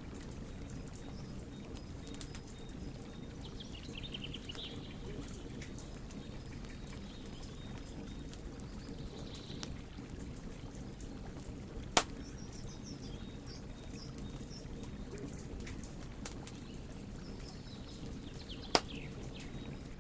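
Burning wood fire crackling with a steady scatter of small snaps, and two much louder sharp pops, about twelve seconds in and near the end.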